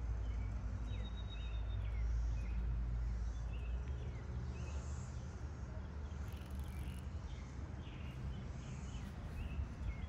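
Birds chirping outdoors in short, repeated calls that rise and fall in pitch, one held briefly on a steady high note about a second in, over a low rumble of wind on the microphone.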